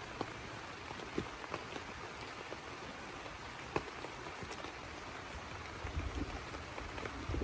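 Steady rain falling, with scattered single drops ticking sharply close by. A low rumble builds near the end.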